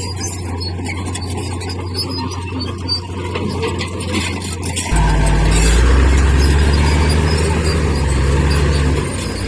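Heavy earthmoving machinery's diesel engine running with a steady low hum, stepping up abruptly to a louder, heavier rumble about five seconds in.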